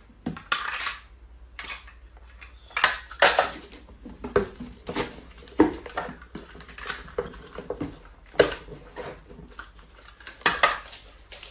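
Irregular clinking and clattering of hard objects, a dozen or so sharp knocks at uneven intervals with quieter rattling between them.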